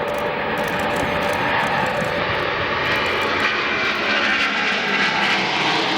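Antonov An-124-100's four D-18T turbofan engines running: a steady jet noise with high whining tones, one of which edges up in pitch near the end.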